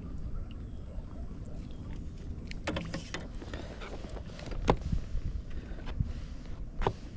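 A steady low rumbling noise with a handful of sharp knocks and clatters. They are scattered through the middle and latter part, and the loudest comes a little past halfway.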